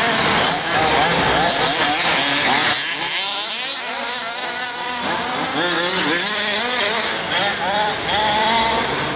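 Small engines of RC buggies running hard on a track, their pitch rising and falling as they rev up and back off, with voices of a crowd underneath.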